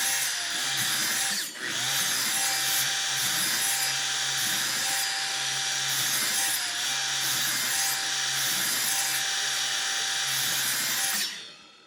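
Electric power tool running on wood: a steady whine over a loud rushing noise, the pitch sagging briefly a few times as it is loaded. It is switched off about eleven seconds in and dies away.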